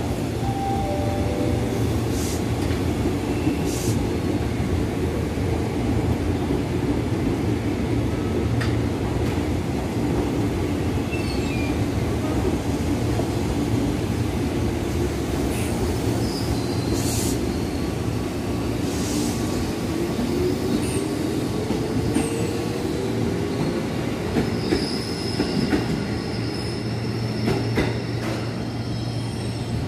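Stainless-steel electric commuter train rolling slowly past a platform. Its wheels click over the rail joints and squeal, a mid-pitched motor whine glides upward about two-thirds of the way through, and a thin high squeal starts near the end.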